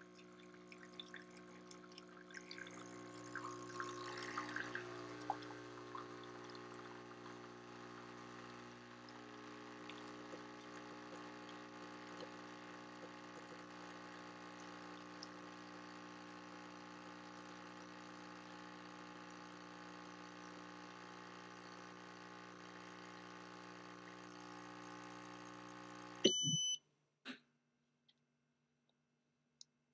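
Breville Barista Touch espresso machine's vibratory pump buzzing steadily as it pulls a shot, with espresso trickling into the cup. The pump cuts off suddenly near the end, followed by a short high beep and a few clicks.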